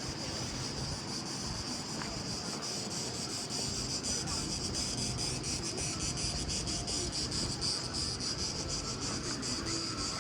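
Insects chirring: a steady, high-pitched buzz with a fast, even pulse, growing a little louder about four seconds in, over faint low background rumble.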